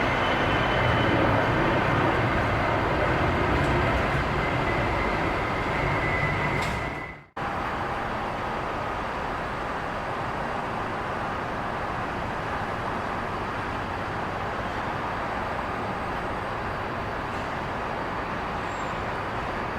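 Jet airliner engine noise, loud and steady with a thin high whine, that cuts off abruptly about seven seconds in; a quieter steady rushing noise follows.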